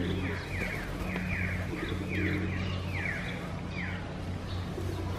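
A bird calling over and over in short falling notes, about two a second, over a steady low hum.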